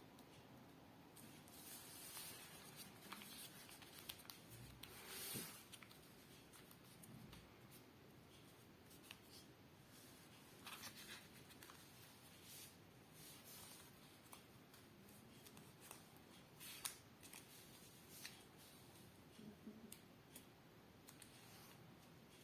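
Faint, intermittent rustling and crisp creasing of a sheet of paper being folded by hand, with a few short sharp scrapes.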